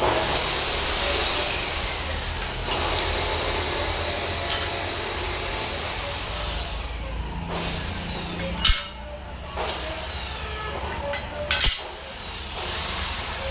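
Power tool running in long bursts: a high whine that rises and sags as it takes load, over a loud hiss, with a few sharp knocks between the bursts.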